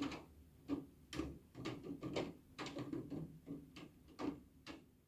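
Rain dripping: separate drops tapping irregularly on a hard surface, several drops a second, with no steady downpour hiss.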